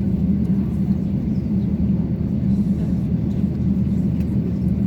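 Steady low rumble inside the cabin of an Airbus A350-900 with Rolls-Royce Trent XWB engines, running evenly with no rise or fall in level.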